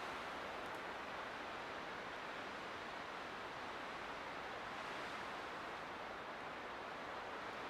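Light wind blowing steadily, a soft even rushing that swells gently and eases again.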